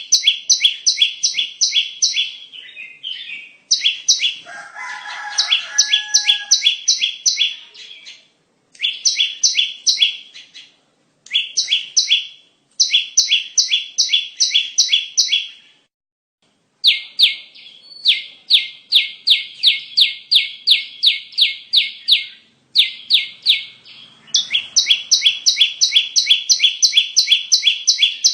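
Bar-winged prinia (ciblek) lure call: rapid series of sharp, high chirps, about four a second, in bouts of a few seconds with short pauses between them.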